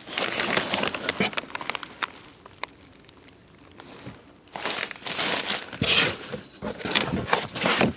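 Cardboard box and packing material being handled, crinkling and rustling with sharp crackles, in two spells: one in the first two seconds and a louder one from about halfway to the end.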